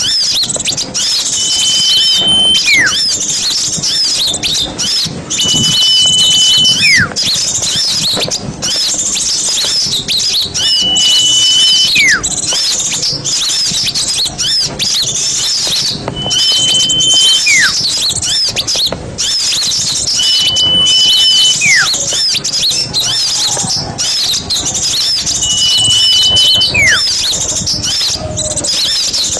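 Dense, continuous chattering of many small birds. Over it a clear whistled note is held for about a second, then drops in a quick falling slur, repeated six times at intervals of roughly five seconds.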